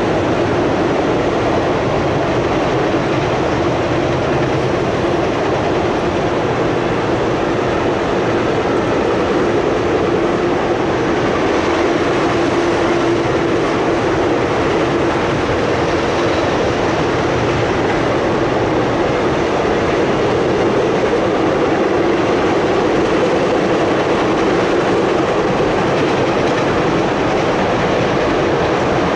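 Freight train of enclosed autorack cars rolling past at close range: a steady, loud rumble of steel wheels on the rails.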